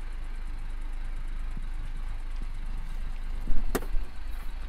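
Car engine idling with a steady low rumble, and one sharp knock about three and a half seconds in.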